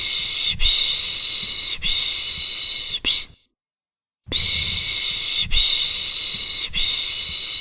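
A person shushing to soothe a baby ('pış pış'): long 'shhh' sounds of about a second each, in runs of three followed by a short 'sh'. About three seconds in there is a pause of about a second, then a new run of long shushes begins.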